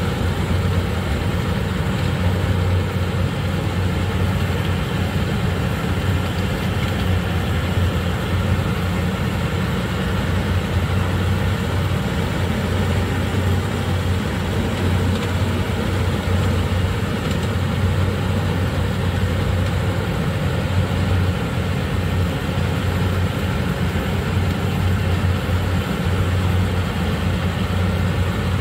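Yanmar combine harvester's engine running steadily under load in a muddy rice paddy, a constant low drone with machinery noise over it.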